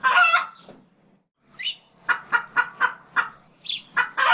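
Domestic fowl calling: a quick run of short, evenly spaced clucks, about four a second, with two higher chirps in between.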